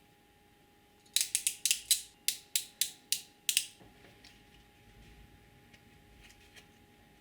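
A small metal mechanism clicking about ten times in quick succession, roughly four clicks a second, like a ratchet or gears being turned, then a few faint ticks.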